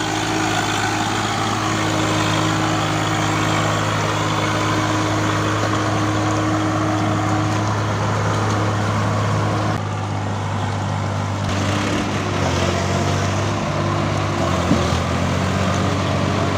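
Tractor diesel engine running at a steady speed, with a small change in the sound about ten seconds in.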